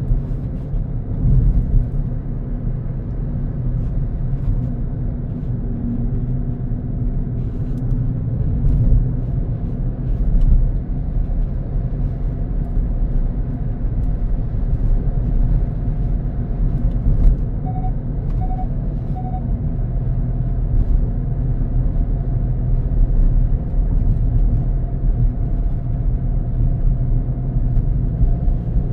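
A car on the move: steady engine and road rumble. Three short beeps come about two-thirds of the way through.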